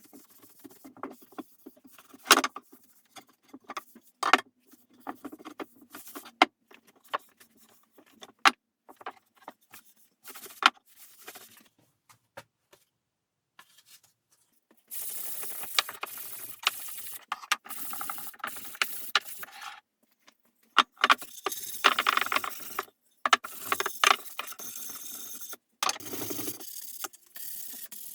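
Hand work on an antique wooden butler's table: scattered clicks and knocks of tools and parts being handled, then from about halfway a steady rough rubbing, stopping and starting, with more knocks between strokes.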